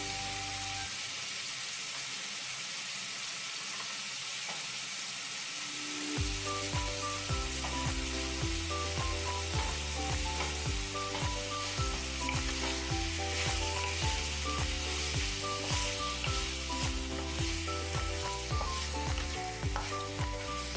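Chicken pieces and pork liver sizzling as they brown in a wok, stirred now and then with a wooden spatula. Background music with a steady beat drops out about a second in and comes back about six seconds in.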